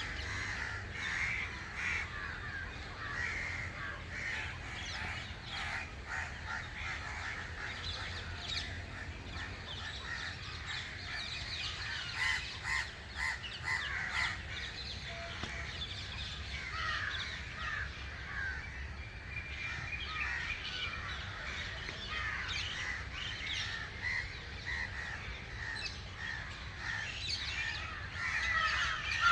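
Many wild birds calling at once: a dense chorus of short, overlapping chirps and calls.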